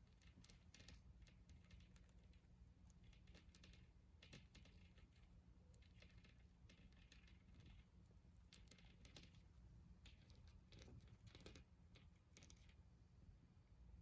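Near silence with faint, irregular small clicks and scratches over a low steady hum.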